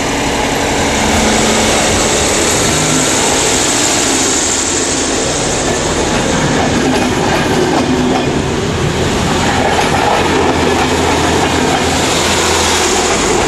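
DB class 624 diesel railcar passing close by along the platform, its underfloor diesel engines running and its wheels rolling on the rails in a steady, loud rumble.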